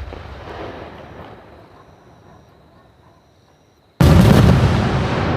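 Fireworks shells bursting close by: a burst just before the start fades away over about four seconds, then another loud burst about four seconds in is followed by a dense, continuing rush of noise.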